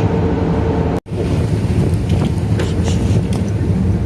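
Ferry's engine running with a steady low rumble, wind buffeting the microphone; the sound drops out for an instant about a second in.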